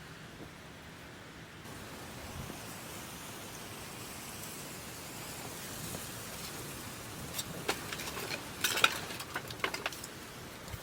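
Food sizzling in a cooking pot over the heat, a steady hiss, with a run of sharp clicks and clatters from utensils or the pot about seven seconds in.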